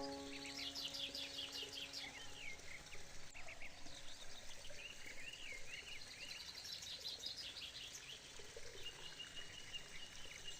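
Birds singing: a busy run of quick chirps and trills, with one held high whistle near the end, over a soft background hiss. A few mallet-like musical notes ring and fade out in the first couple of seconds.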